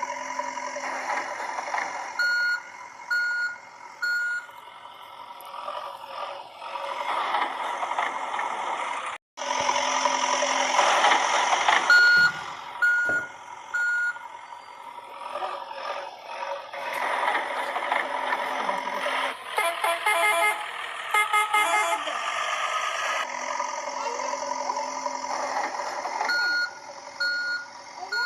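Battery-operated toy construction vehicles playing electronic sound effects: a steady synthetic engine hum with sets of three or four short reversing beeps, repeated several times. Partway through, a different patterned electronic jingle plays for a few seconds.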